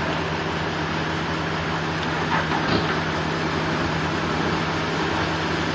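Sawmill machinery running steadily: a constant low hum under an even mechanical noise.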